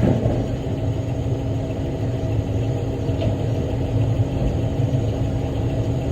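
Diesel engine of a big rock haul truck idling, a steady low drone.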